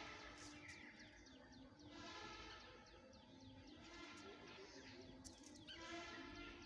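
Faint birdsong: quick repeated chirps from small birds mixed with low, held calls.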